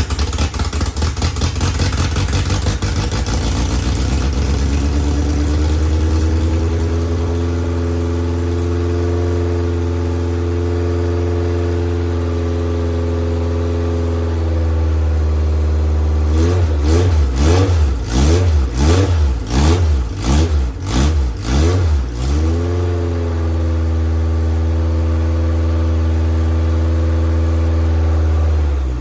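Van Diemen Formula 2000 race car's 2-litre inline-four engine running just after starting, back to life after years in storage with freshly cleaned points. Its idle climbs over the first few seconds and holds steady, then about halfway through it is blipped with a quick run of about seven revs before settling back to idle.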